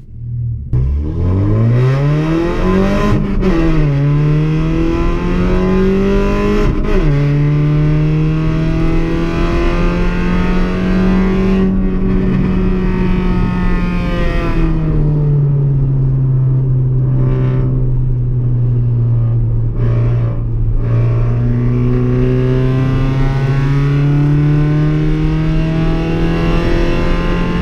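Car engine accelerating hard through the gears. The revs climb and fall sharply at two upshifts in the first seven seconds, then hold steady, drop lower around the middle and slowly rise again near the end.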